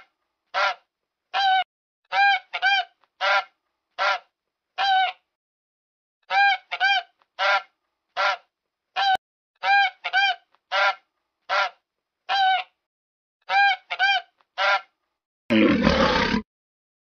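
Honking waterfowl calls: about twenty short, clear, goose-like honks, single or in quick pairs and threes, with silent gaps between them. Near the end a louder, rough, roar-like animal call breaks in.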